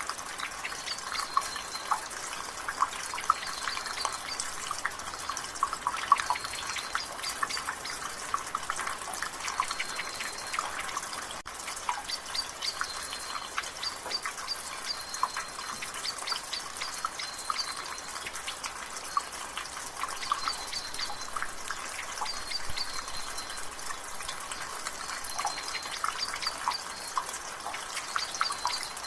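Water dripping fast and irregularly from a gutter in light rain, a dense patter of quick drips over a steady hiss. A bird repeats a short high call every second or two.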